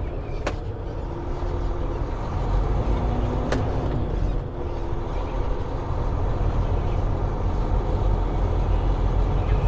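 Semi-truck running down the road, heard from inside the cab: a steady low engine and road rumble, with two sharp clicks, one about half a second in and one about three and a half seconds in.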